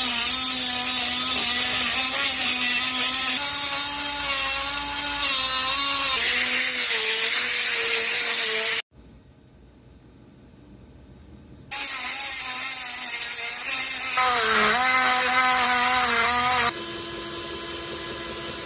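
High-speed power tool grinding and drilling into a cracked cast iron exhaust manifold to groove out the crack, its motor whine dipping in pitch as it bites under load. It stops about nine seconds in, starts again about three seconds later, and runs steadier and lighter near the end.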